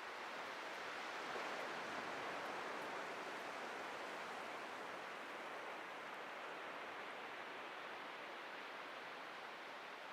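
Atlantic surf washing onto a beach: a steady rushing noise that swells about a second and a half in, then slowly eases off.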